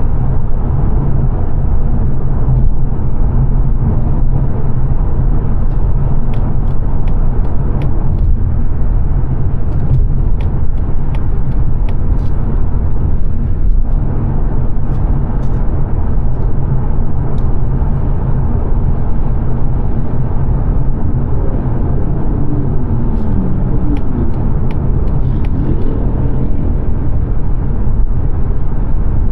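Steady road noise inside a 2022 Mazda 3 saloon's cabin at speed: tyre roar and engine drone, heaviest in the low end. A few faint ticks come midway and near the end.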